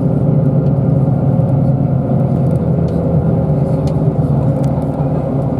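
Bus engine running steadily as the bus drives, heard from inside the passenger cabin as a low drone.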